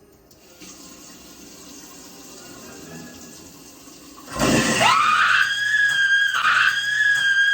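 Water running in a sink, then about four seconds in a person suddenly lets out a loud, long, high-pitched scream. The scream rises in pitch and is held with a brief break. It is a staged scream of pain from a prank, faking fingers caught in the sink's garbage disposal.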